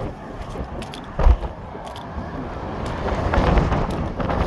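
Highway traffic running past on the interstate, mixed with wind buffeting the microphone; a short low thump about a second in, and the noise grows louder in the last second or so.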